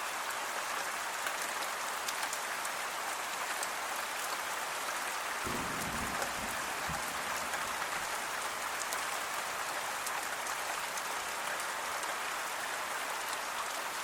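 Steady rainfall pattering on leaves, with fine individual drop ticks throughout. A faint low rumble comes in briefly about halfway through.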